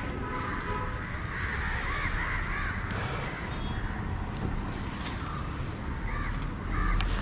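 Crows cawing in a few bouts over a steady low rumble, with a sharp knock about seven seconds in.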